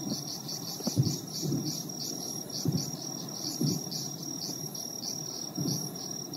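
Distant fireworks booming as muffled low thuds at uneven intervals of a second or two, the loudest about a second in, over a steady pulsing trill of crickets.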